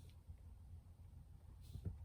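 Near silence: a low steady hum, with one small click near the end.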